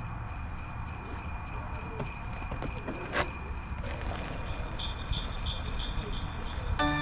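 Jingle bells shaken in a steady beat over a low rumble, as in a Christmas song's intro; just before the end, pitched bell-like melody notes come in.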